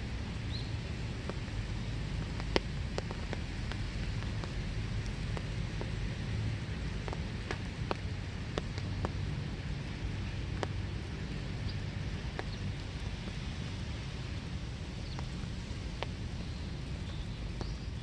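Steady winter rain falling in a small wood, with scattered sharp drips tapping close by over the even hiss of the rain.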